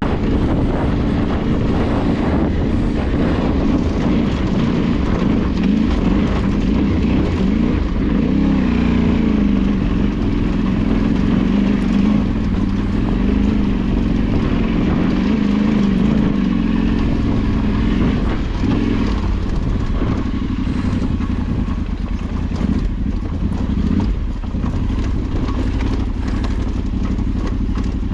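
Trail motorcycle engine running steadily while being ridden off road, its pitch rising and falling a little as the throttle changes.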